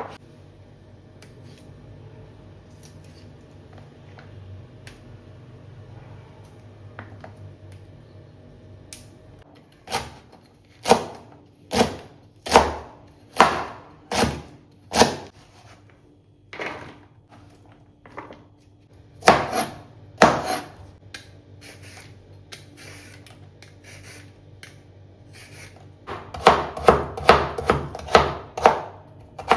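Hard knocks and clatter of kitchen items being handled and set down: first a steady low hum, then a run of sharp knocks about a second apart, a few more later, and a quick burst of clatter near the end.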